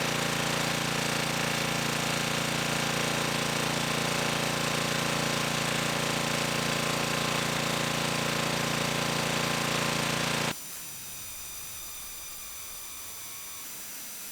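Bee vacuum running steadily at full power, sucking bees off the comb, then cutting off suddenly about ten and a half seconds in; a quieter steady hum remains after it.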